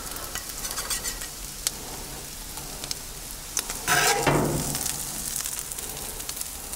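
Fried dumplings, pork and egg sizzling steadily on a hot cast-iron griddle plate, with a metal spatula scraping across the plate once, loudly, about four seconds in, and a few light clicks.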